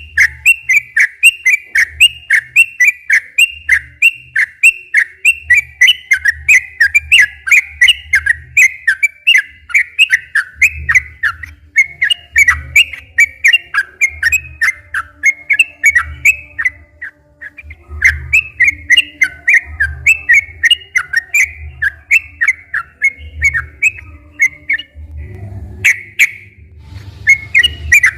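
A yellow-vented bulbul (trucukan) singing a long, rapid run of short, whistled chirping notes, about three a second, with a short pause partway through and another near the end. This is the excited, full song kept for luring or training other trucukan.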